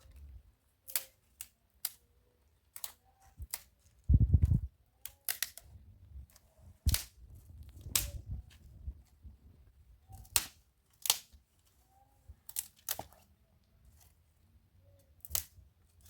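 Dry thin firewood giving sharp, irregular clicks and cracks, one after another at uneven gaps. A louder low thump comes about four seconds in.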